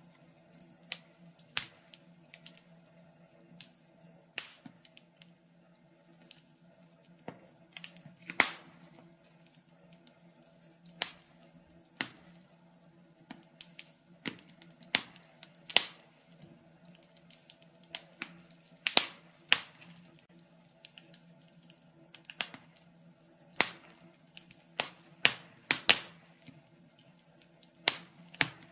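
Wood fire burning in a fireplace, crackling with irregular sharp pops and snaps at varying loudness, over a faint steady low hum.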